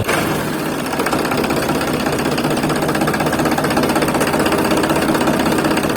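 A motor running steadily with a fast, even rattle over a low hum, like an idling engine.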